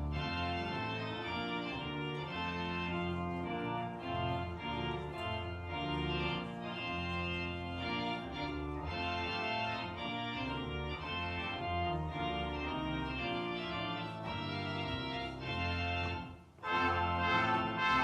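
Organ music playing slow, sustained chords. Near the end it breaks off briefly, then comes back louder.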